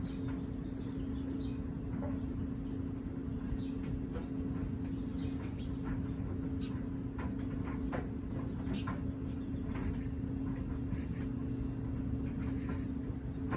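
Parrot eating: scattered small clicks and crunches of a beak working food, over a steady low hum.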